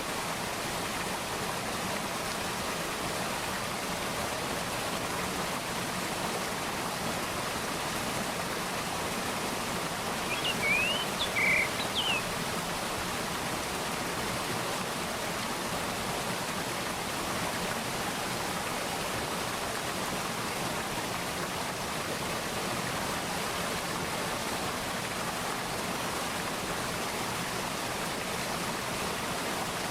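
A mountain valley stream flowing steadily. About a third of the way in, a bird briefly calls a few short, high notes over the water.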